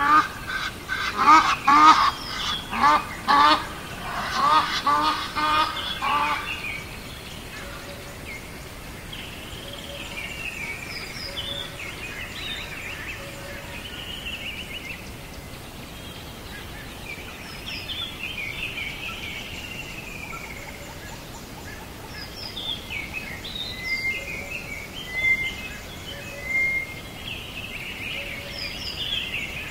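Birds calling: a fast run of loud repeated calls, several a second, for the first six seconds. After that, quieter high chirps and trills from small birds over a steady outdoor hiss.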